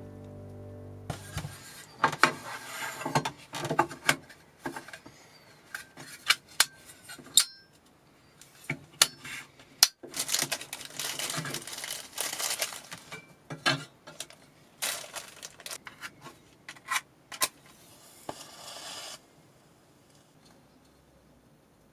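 Small hard objects being handled: a run of clinks and clatters, with stretches of rustling, that stops a few seconds before the end. Background music fades out about a second in.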